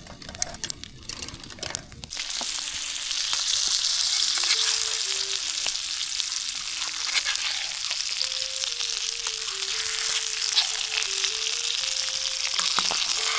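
Ribeye steak sizzling in garlic and herb butter in a pan. The sizzle jumps to a loud, steady hiss about two seconds in.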